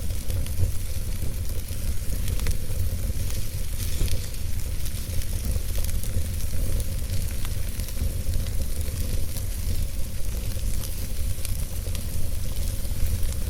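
Wood logs burning in a fireplace: a steady low rumble of flame with a hissing bed and frequent scattered crackles and pops.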